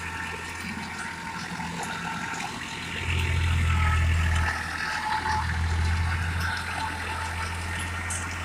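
Massey Ferguson 5245 tractor's three-cylinder diesel engine running steadily and growing louder twice, about three and five seconds in. It is described as a super fresh engine that gives no smoke.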